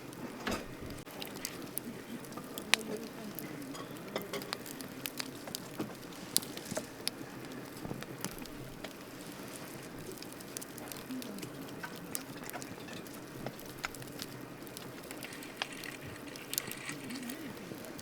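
Wood campfire crackling, with irregular sharp pops and snaps over a steady low rustle of the burning fire; the loudest pop comes a little under 3 seconds in.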